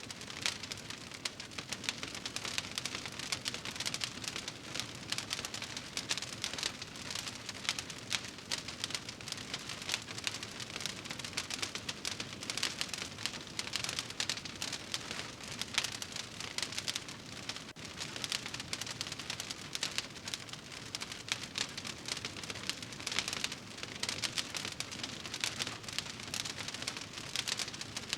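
Wood fire crackling in a fireplace: a steady stream of dense small pops and snaps over a soft hiss.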